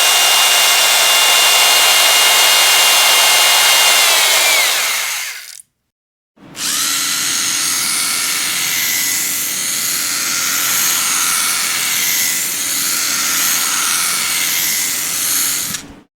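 Electric power drill running at speed, its motor whine sliding down as it winds down and stops about five seconds in. After a brief gap it starts again and runs with a slightly wavering pitch before cutting off near the end.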